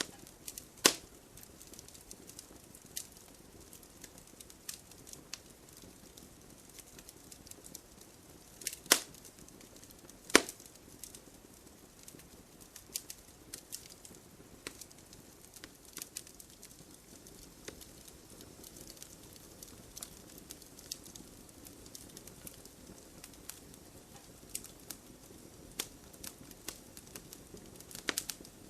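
Wood fire in an open fireplace crackling, with scattered sharp pops over a low hiss and a few louder snaps about a second in, around nine and ten seconds in, and near the end.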